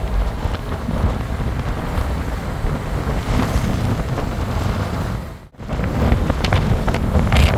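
Moving train: a steady low rumble with wind buffeting the microphone. It cuts out briefly about five and a half seconds in, then returns with a run of sharp knocks near the end.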